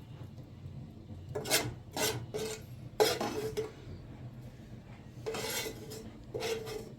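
Metal kitchenware clattering and scraping: utensils knocking and rubbing against pots and dishes in about six separate strokes, some leaving a short metallic ring.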